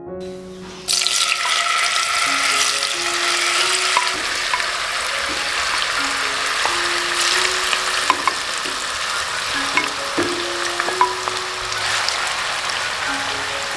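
Cubes of tofu frying in hot oil in a wok: a loud sizzle that starts suddenly about a second in, dotted with a few sharp pops and clicks as the tofu is stirred, easing off near the end. Soft piano music plays underneath.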